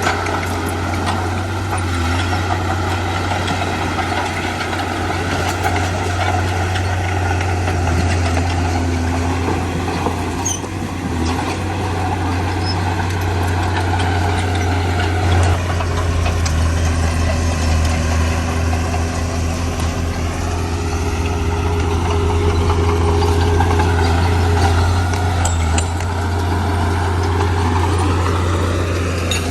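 Heavy diesel engine of earthmoving machinery running continuously, its pitch wavering and rising near the end.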